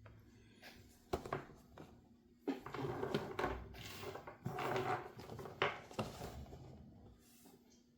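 A toy packaging box being handled: a few sharp knocks, then several seconds of rustling and scraping with more knocks, dying down near the end.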